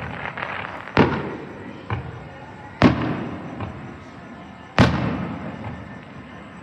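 Aerial firework shells exploding: three big bangs about two seconds apart, each trailing off in a long echoing rumble with crackle, and a smaller pop between the first two.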